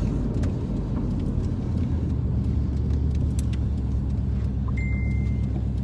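2007 Subaru STi's turbocharged 2.5-litre flat-four running steadily at a low even speed, with a few faint clicks and a short high beep about five seconds in.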